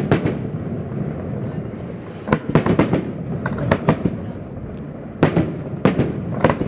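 Aerial firework shells bursting: irregular sharp bangs, with a quick run of them about two and a half seconds in, over a steady low rumble from the display.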